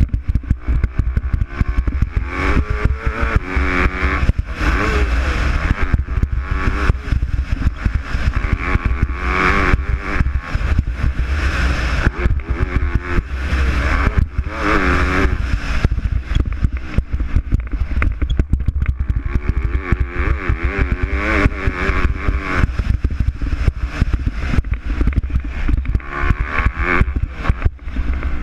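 MX2 motocross bikes racing, their engines revving up and dropping back several times as riders pass, over a constant low rumble and clatter.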